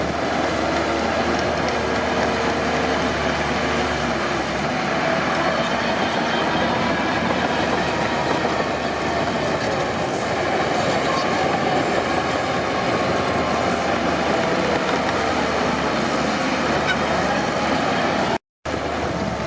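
Crawler bulldozer working: diesel engine running under a steady clatter and squeal of steel tracks. The sound cuts out for an instant near the end.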